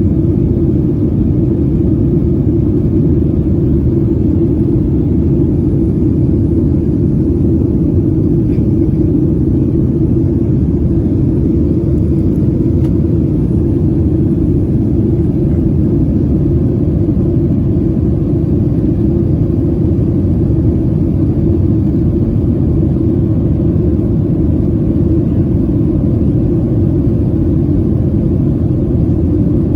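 Steady low rumble of a Boeing 737 heard from inside the passenger cabin: engine and airflow noise, unchanging throughout.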